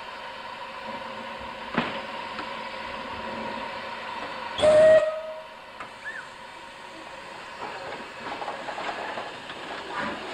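Narrow-gauge steam locomotive giving one short, loud whistle blast about halfway through, over steady train background noise with a knock before it and some rattling later.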